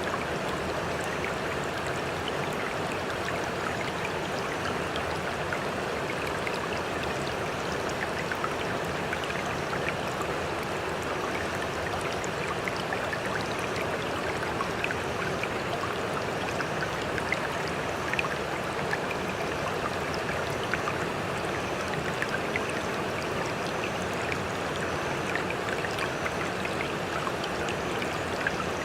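Water splashing and trickling steadily, with many small drips and plops on top. There is no slow swell and crash of breaking waves.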